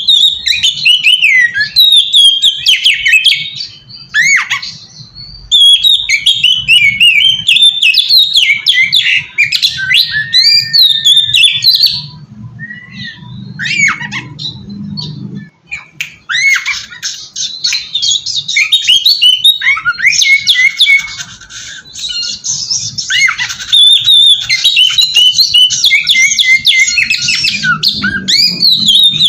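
Oriental magpie-robin (kacer) singing a loud, fast run of varied whistles, chatters and harsh notes. The song breaks off briefly about four seconds in and again for a few seconds from about twelve seconds in, then resumes densely. It is the kind of territorial song used as a lure to provoke other magpie-robins into answering.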